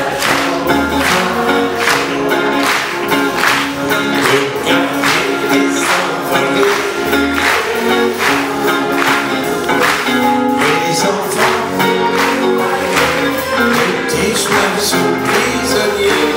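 Live band playing the instrumental passage of a French chanson, with sustained notes over a steady beat of about two strokes a second.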